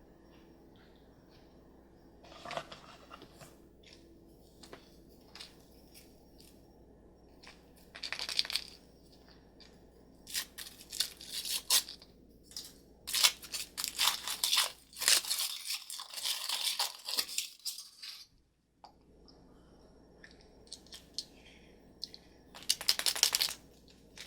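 A wrapper being torn open and crinkled by hand, in irregular bursts that are busiest in the middle, with scattered small clicks between them.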